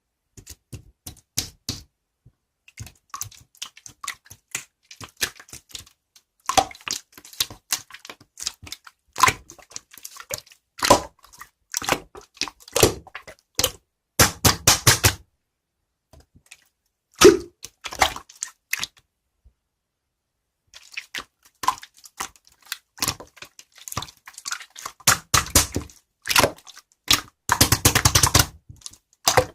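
Slime being squeezed and poked by hand, giving sharp sticky clicks and pops, with quick runs of crackling pops about halfway through and again near the end.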